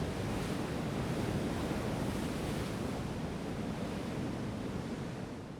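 Ocean surf washing on the shore, a steady rush, with wind blowing on the microphone.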